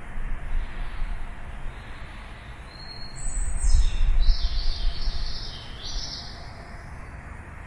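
Birds chirping, with a run of high, quick calls from about three seconds in that lasts a few seconds, over a steady low rumble.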